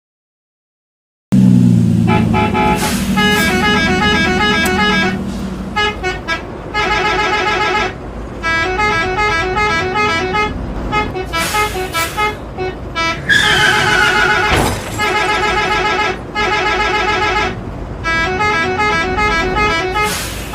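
Indonesian 'telolet' multi-tone bus horn playing a fast, repeating melody of toots, starting suddenly about a second in and going on and off with short breaks. A short falling tone sounds about halfway through.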